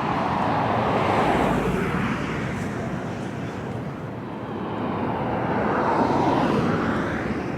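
Highway traffic on the bridge deck: an even road-noise hum with two vehicles passing, one swelling past about a second in and another around six seconds.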